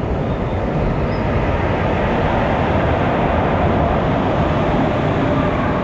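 Passenger train passing close by on the adjacent track: a steady rumble of locomotive and coaches going past, heard from the open doorway of another train.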